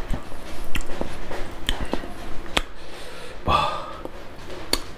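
Close-up chewing and lip-smacking of a mouthful of rice eaten by hand: sharp wet mouth clicks at an uneven pace, with one short voiced hum about three and a half seconds in.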